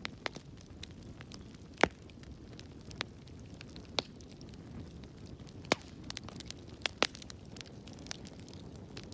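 Fire burning in a fireplace: a steady low rumble of flames with irregular sharp crackles and pops. The loudest pops come about two seconds in and again around six and seven seconds.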